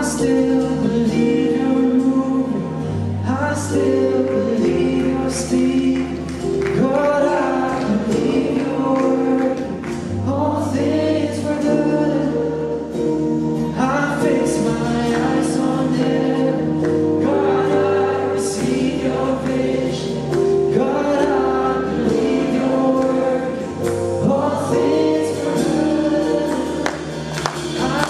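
Live gospel worship music: a group of voices singing over held chords and a bass line that changes every couple of seconds.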